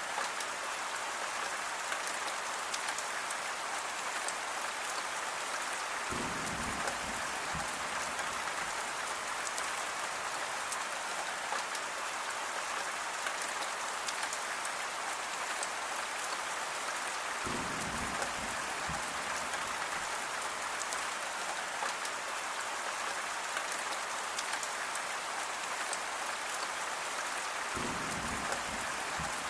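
Steady rain falling, an even hiss of drops. A brief low rumble comes three times, about every eleven seconds.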